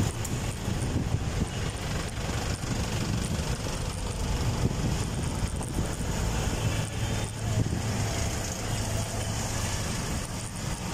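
Steady rumble of riding heard from a camera on a moving bike: wind and road noise, even throughout with no distinct events.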